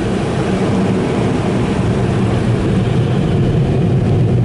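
Car wash tunnel equipment running with a loud, steady rushing roar, heard from inside a car on the conveyor, growing slightly louder toward the end.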